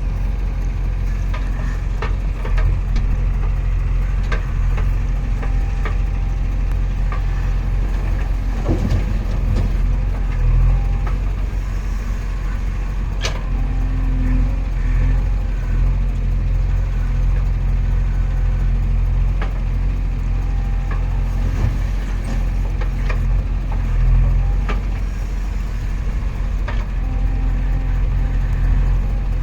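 Heavy diesel engine running steadily at a low, even speed, with a few sharp knocks or clanks scattered through it.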